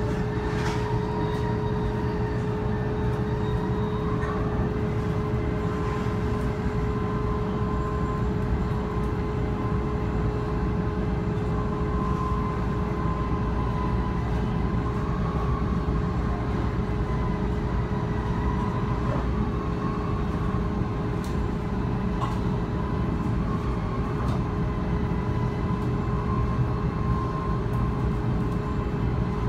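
Tōkaidō Shinkansen running at speed, heard from inside the passenger car: a steady low rumble with a constant hum and a fainter wavering whine above it.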